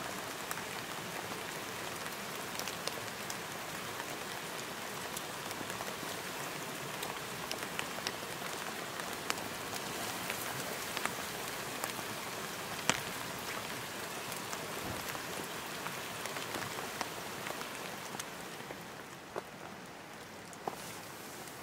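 Steady rain falling, an even hiss dotted with sharper ticks of single drops. About nineteen seconds in the hiss thins, leaving fainter rain with a few louder separate drops.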